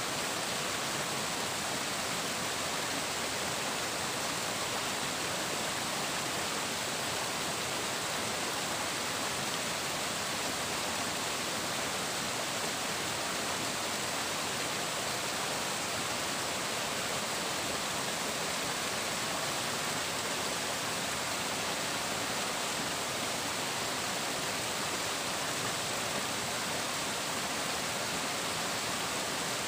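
Flowing water rushing steadily, an even, unbroken babble.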